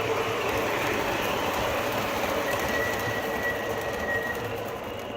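Subway train running on the rails: a steady rumble, with a thin, high wheel squeal from about two and a half seconds in, lasting nearly two seconds. The sound eases off near the end.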